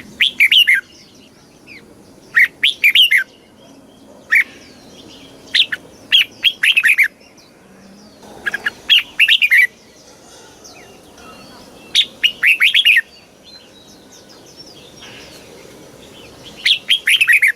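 Red-whiskered bulbul singing: short phrases of quick, falling notes, repeated every two to four seconds.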